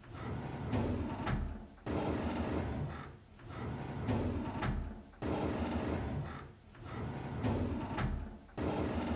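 A drawer sliding open again and again, each slide a noisy scraping run of a second and a half or so with a low rumble, some starting suddenly and some swelling in gradually.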